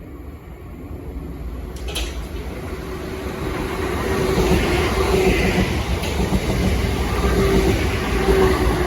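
Southeastern Class 465 Networker electric multiple unit approaching and running past, its wheel-on-rail noise growing steadily louder over the first half, with a steady hum under it. There is a short sharp click about two seconds in.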